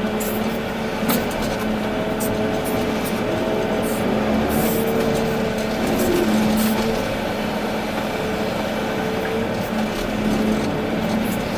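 Volvo EC380D excavator's diesel engine running under load with a steady hydraulic hum whose pitch shifts slightly as it works, and a few short metallic clanks.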